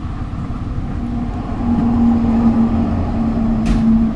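A motor vehicle engine running over a low rumble of traffic, its steady hum growing stronger about halfway through, with a short click near the end.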